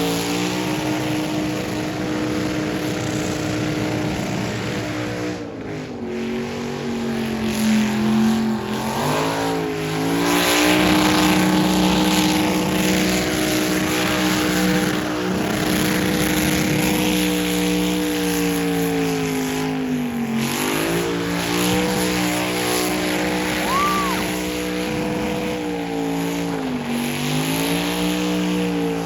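LS-swapped 2001 Ford Crown Victoria's V8 held at high revs during a burnout. The revs drop and climb back again about three times.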